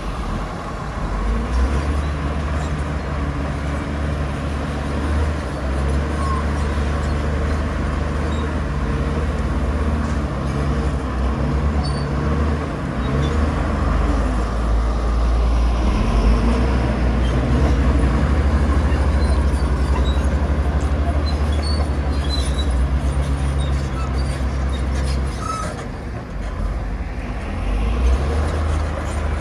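Komatsu bulldozer's diesel engine running under load with a steady low drone as it pushes soil. The engine briefly eases off near the end, then picks back up.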